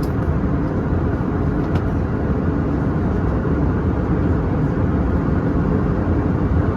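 Steady cabin noise aboard an Airbus A319-100 in flight: an even, low roar of the jet engines and airflow with no change in level.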